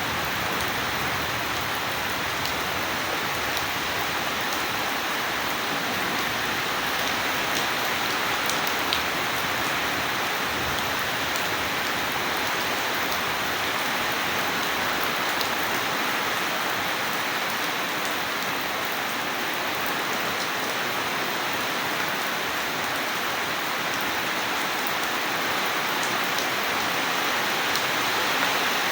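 Steady heavy rain falling, an even hiss with scattered faint drop ticks; no thunder is heard.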